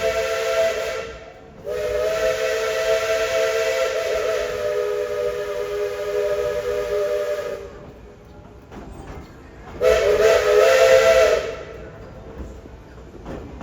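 Steam locomotive's chime whistle blowing several steady tones at once: the tail of one blast, then a long blast of about six seconds, then a short blast. Faint train running noise lies between the blasts.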